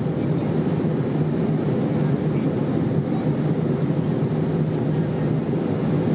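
Steady cabin noise of a Boeing 787-8 airliner in flight: an even low rumble of engine and airflow.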